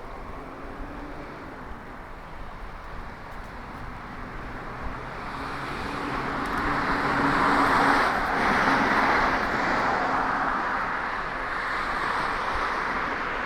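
A car passing on the street: engine hum and tyre noise swell to a peak about eight seconds in, then slowly fade, over steady street traffic noise.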